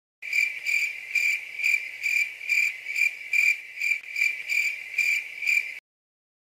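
Cricket chirping sound effect: a high, steady trill pulsing about twice a second. It starts and stops abruptly.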